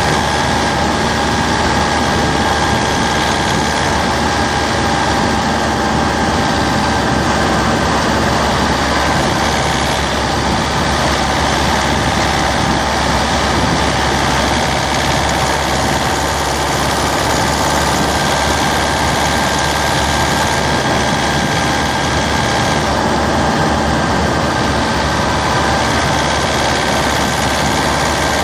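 Citroën C3's 1.4 HDi DV4TD four-cylinder turbodiesel engine running steadily, with a faint steady whine over the diesel clatter.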